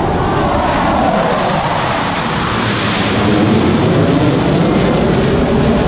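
Jet aircraft flying past an air show crowd: a loud, continuous engine noise that grows brighter and sharper about halfway through as the jets pass closest.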